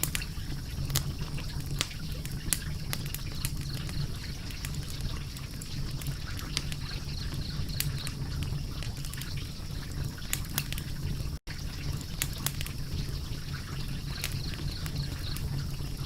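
Wood fire crackling: irregular sharp pops and snaps over a steady low rumble of the flames, with a momentary dropout a little after the middle.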